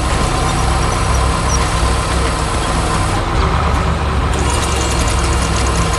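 Excavator engine sound effect: a heavy diesel running steadily with a continuous low rumble.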